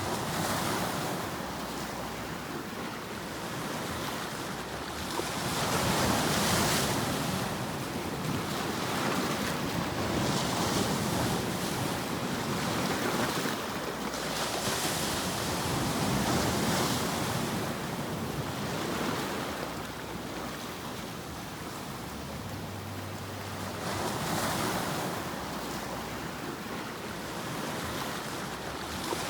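White-noise sleep track: a steady rushing noise like surf, swelling and fading in slow surges every few seconds.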